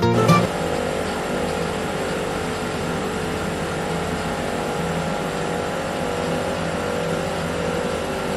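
Small electric motor of a DIY model running steadily with an even whir.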